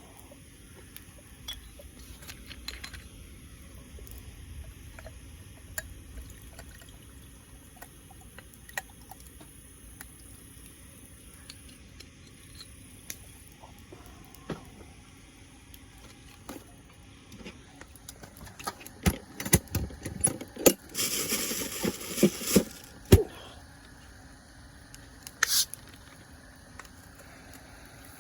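Small clicks and knocks of tableware being handled. About two-thirds of the way in comes a quick run of clatters, then a short hiss like liquid being poured, lasting about a second and a half.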